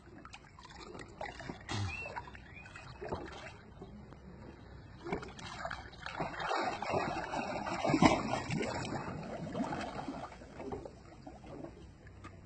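Pool water sloshing and splashing with scattered knocks and taps, swelling louder around the middle.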